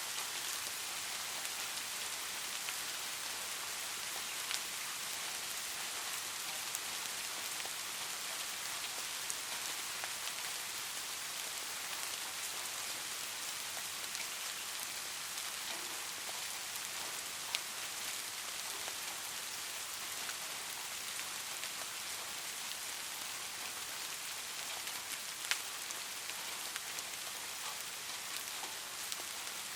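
Light rain falling steadily on a surface, an even hiss with scattered individual drop ticks and a few slightly louder drips.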